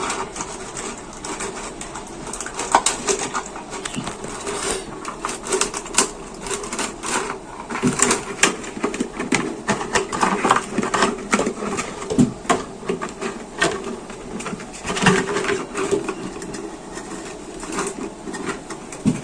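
Hands working with plastic bottles while threading a small motor's wire through them: irregular clicks, knocks and plastic crinkling.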